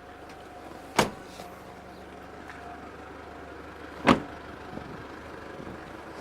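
Two loud thumps about three seconds apart, the second the louder, over a steady low hum.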